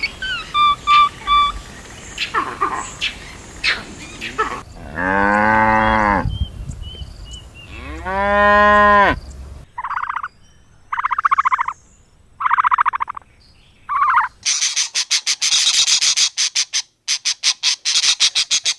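A string of animal calls: short chirps, then a cow mooing twice in long, pitched calls of about a second and a half each. Four short, higher calls follow, then a fast rattling chirr.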